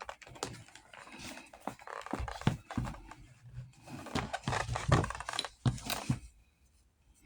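Irregular clicks, knocks and scrapes of hand work on a Western saddle's leather and buckle hardware, dying away near the end.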